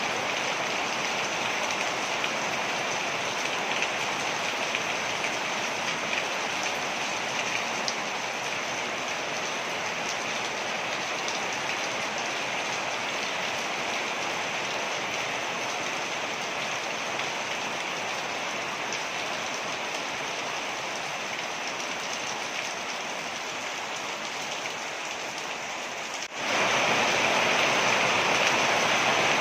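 Steady rush and splashing of a waterfall. About 26 seconds in it cuts abruptly to a louder, brighter rush of water.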